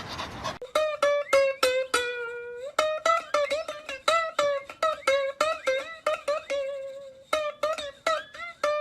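Music: a plucked string instrument playing a quick run of single notes, many of them sliding in pitch, with a brief pause about seven seconds in.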